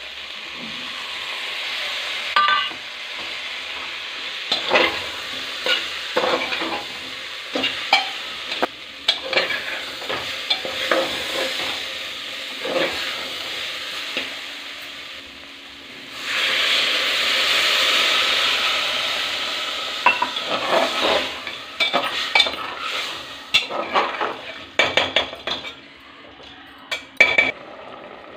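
Potatoes and tomatoes frying and sizzling in an open aluminium pressure cooker while a metal spatula stirs them, clinking and scraping against the pot many times. The sizzle swells loudly a little past halfway, then dies back under the spatula clinks.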